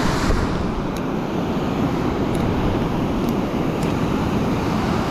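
Steady rush of fast-flowing creek water, an even hiss-like roar with no breaks.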